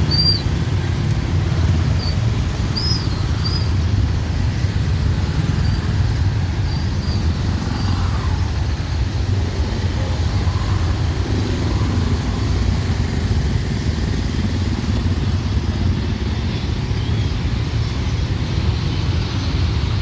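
Busy city street traffic of motorbikes, cars and tuk-tuks: a steady low rumble of engines and tyres. Short faint high squeaks sound now and then in the first several seconds.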